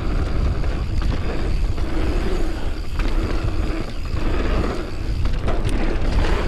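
Wind rushing over the microphone and knobby tyres rolling over a dirt trail during a fast mountain bike descent, with a few sharp rattles from the bike.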